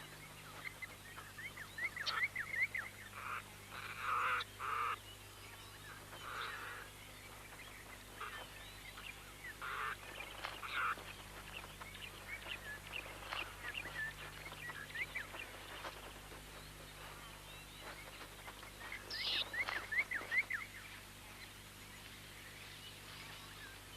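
Dwarf mongooses calling: rapid high chirps and squeaky squeals that come in bouts, loudest a few seconds in and again near the end.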